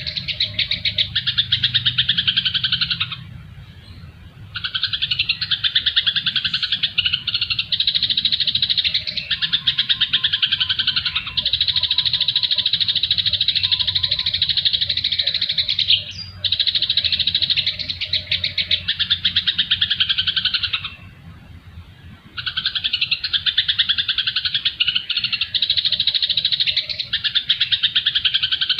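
Songbird calls: long bouts of fast, dense, high-pitched chattering trills, broken twice by brief pauses.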